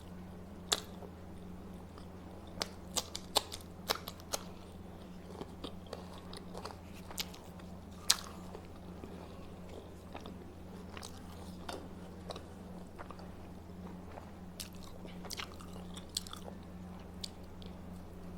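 A person chewing and biting food close to the microphone, with sharp mouth clicks and smacks coming at irregular intervals over a steady low electrical hum.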